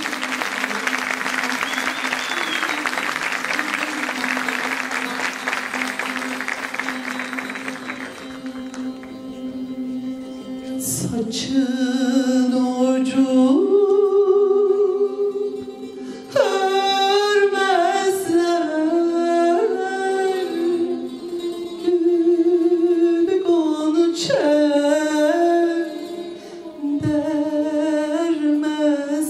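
Turkish folk music: a plucked string instrument plays a fast, dense passage over a steady held low note, then from about 11 seconds a solo voice sings an ornamented, melismatic folk melody with vibrato over the accompaniment.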